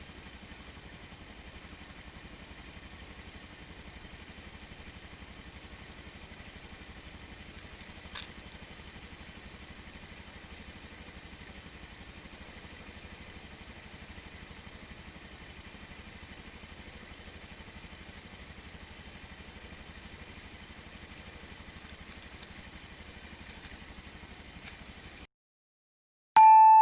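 Honda Super Cub JA44's single-cylinder engine idling steadily on freshly changed oil, with one brief click about eight seconds in. The sound cuts off suddenly near the end.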